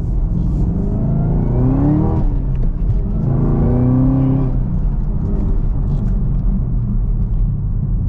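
Supercharged 6.2-litre V8 of a six-speed manual Camaro ZL1 pulling hard twice, its revs climbing and then dropping at each gear change, then settling to a steadier drone.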